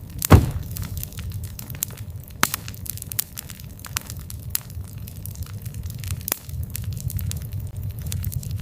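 Wood campfire crackling, with irregular sharp pops and snaps over a low steady rumble of the flames; one loud pop comes shortly after the start.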